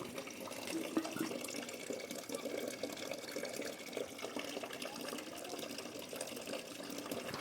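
Water trickling and splashing, with many small clicks and knocks.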